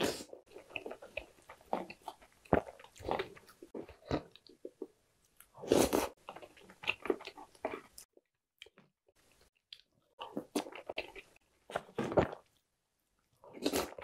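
Close-miked chewing of chocolate snack cakes, cookies and bread soaked in milky chocolate broth, with soft crunches, in bursts broken by short pauses.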